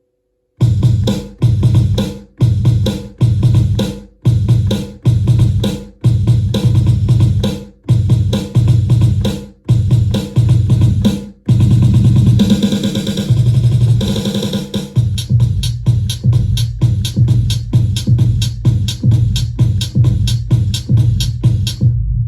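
Electronic drum beat from the Alkaloid sample drum kit played on a Native Instruments Maschine groove box. Deep hits with long decays come about one a second, then a dense roll around the middle gives way to a faster, steady pattern.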